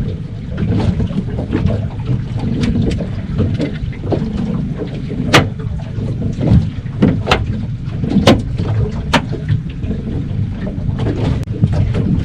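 Wind buffeting the microphone and water lapping on a small boat at sea, a steady low rumble. It is broken by several sharp knocks about halfway through.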